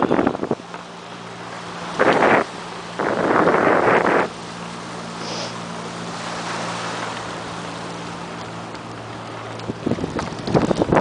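Wind buffeting the microphone in gusts while cycling, over a steady low hum that fades out near the end.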